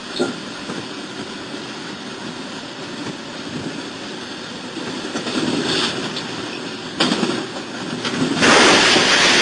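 Train running with a steady rushing rumble that swells about five seconds in. A sudden bang comes about seven seconds in, then a much louder noisy rush near the end.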